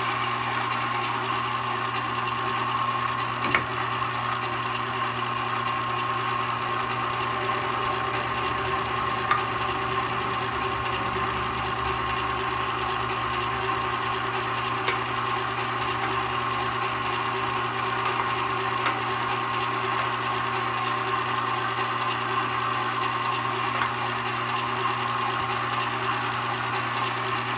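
A 1 hp, 1100-watt #22 electric meat grinder running steadily under load as it grinds meat for sausage: an even motor hum with a few faint clicks.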